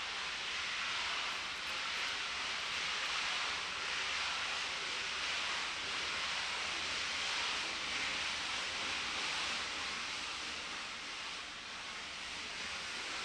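Steam hissing steadily from a standing steam locomotive: an even, unbroken hiss with no beat or rhythm.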